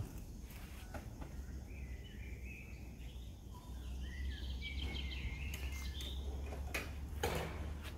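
Small birds chirping and singing in the trees over a steady low outdoor rumble, with a few brief knocks near the end.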